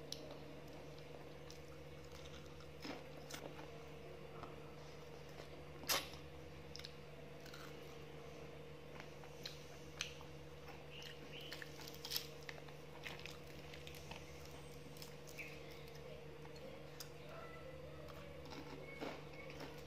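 Person biting and chewing homemade deep-fried chicken, with scattered short crunches, the sharpest about six seconds in, over a steady low hum.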